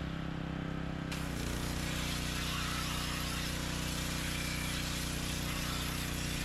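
An engine running steadily, its pitch stepping slightly lower about a second in.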